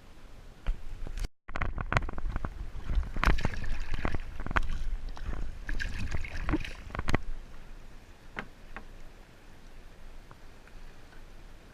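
Water sloshing and knocking around a kayak, with low wind rumble on the microphone. The sound drops out completely for a moment just over a second in, then runs busy with clicks and knocks until about seven seconds in, when it settles to a quieter wash.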